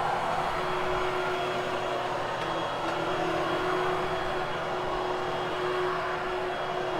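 Vacuum cleaner motor running steadily with a constant whine, as it is pushed over the carpet.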